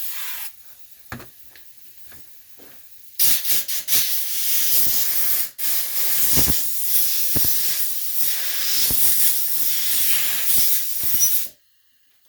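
Compressed air hissing from a blow gun as a small-engine carburetor jet and passages are blown out: a short blast, then a long, loud burst of about eight seconds with a brief break, which cuts off sharply.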